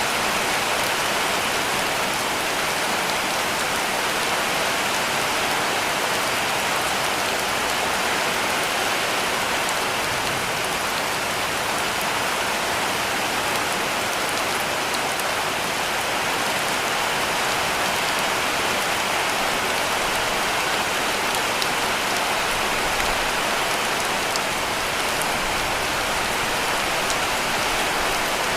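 Heavy rain pouring steadily onto a cabin roof: a dense, even hiss of drops with scattered sharper drop ticks.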